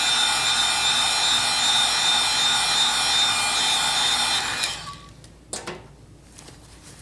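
Hair dryer running steadily with a whining motor, blowing on freshly applied leather dye to dry it; it is switched off about four and a half seconds in. A brief knock follows a second later.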